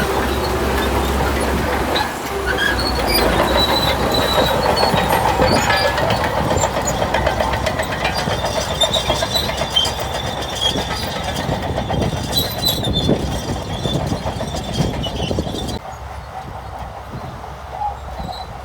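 Shantui crawler bulldozer at work: the engine running under a fast, continuous clanking of the steel tracks, with high squeals from the track chain. The sound drops to a quieter level about 16 seconds in.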